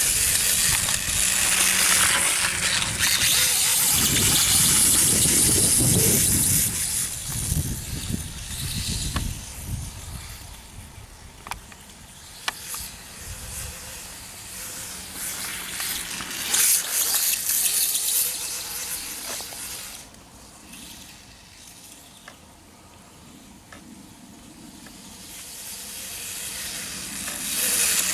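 Radio-controlled electric dirt bike running on a dirt track, with hissing tyre and gravel noise. The sound is loud and rough at first, fades as the bike moves off around the middle, and comes back near the end.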